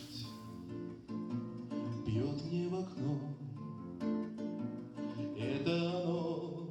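Music: an acoustic guitar plucking and strumming chords, a song's introduction, with a melody line that wavers in pitch over it now and then.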